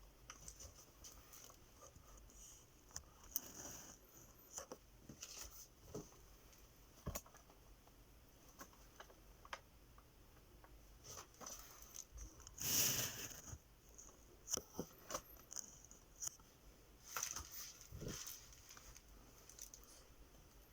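A fancy rat nibbling and chewing watermelon: faint, scattered small wet clicks and bites, with a louder brief rustle about 13 seconds in.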